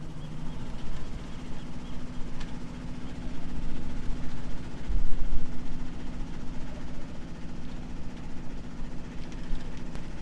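Sailboat's inboard engine running steadily at low cruising speed, a constant hum under a low rumble that rises and falls.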